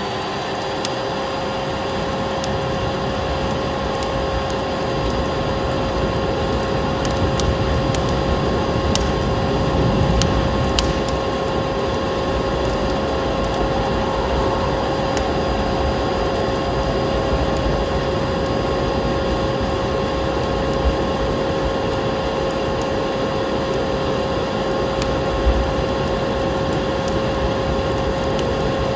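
Vacuum cleaner running steadily, its motor giving a constant whine over a rushing hiss, with scattered crackles and pops of a wood fire.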